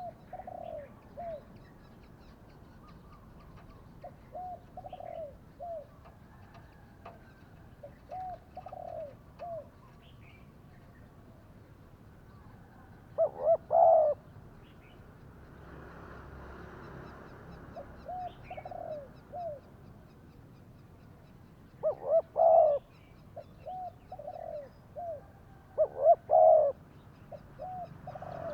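Spotted doves cooing in short repeated phrases of hooting notes every few seconds. A few phrases, midway and near the end, are much louder and closer than the rest. Faint small-bird chirps sound in the background.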